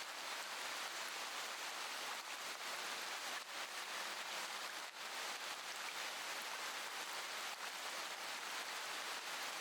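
Steady rain falling: an even hiss of drops with a few louder drops standing out here and there.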